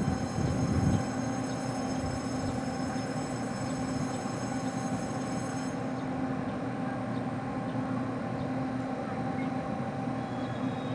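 Train standing at a station platform, its machinery running with a steady hum and a held low tone, a brief louder swell in the first second, and a high whine that cuts off about six seconds in.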